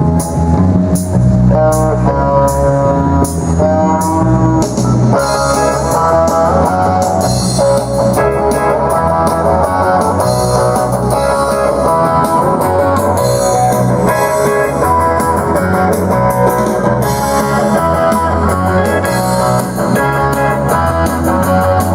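Live band playing an instrumental passage with no vocals: guitar over a bass line and a steady beat.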